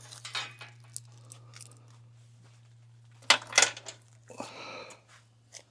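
Metallic clinks and clatter of small hardware and hand tools being handled, a few sharp clicks, then a cluster of clanks a little past three seconds in, over a steady low hum.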